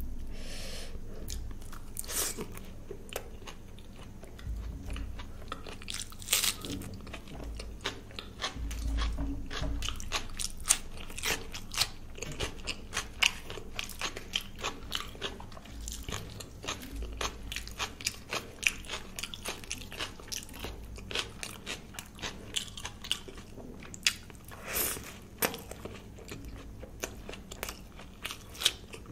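A person chewing and biting luchi (deep-fried puffed bread) scooped with paneer curry, close to the microphone: a dense, irregular run of small crunches and mouth clicks.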